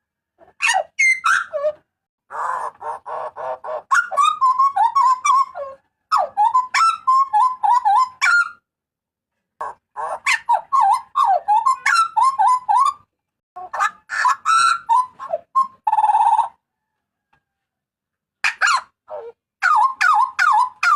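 Papuan butcherbird giving loud, ringing calls: phrases of quick notes that bend up and down in pitch, each a few seconds long with short pauses between, and a longer pause about two-thirds of the way through.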